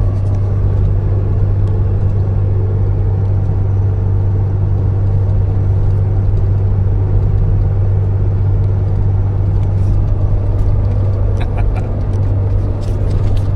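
Nissan Patrol with a BMW M57 turbo-diesel straight-six cruising at highway speed while towing, giving a steady low engine and road drone.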